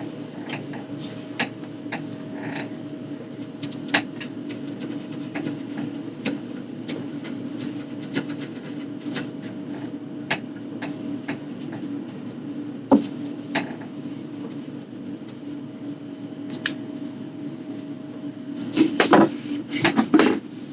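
Scattered clicks and knocks of containers and fridge parts being handled and wiped during fridge cleaning, over a steady low hum. A quick run of clattering comes near the end.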